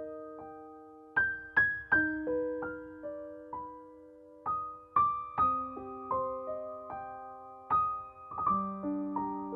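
Background music: a slow solo piano melody of single struck notes that ring and fade.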